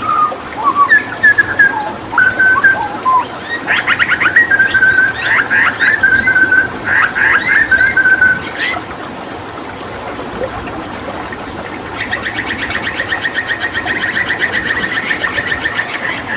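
Hooded butcherbird singing: clear whistled notes mixed with sharp clicks, a short pause, then a rapid trill of quickly repeated notes near the end, over a steady trickle of running water.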